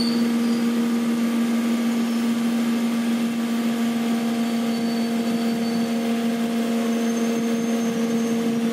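Passenger train coach rolling along the track, heard from the open doorway: a steady running noise of the wheels on the rails with a constant low hum through it.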